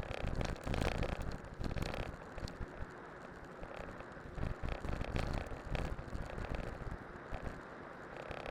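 A cyclocross bike on studded tyres riding downhill over a rough winter trail: wind buffets the microphone under irregular rattles, knocks and crunching from the tyres and frame.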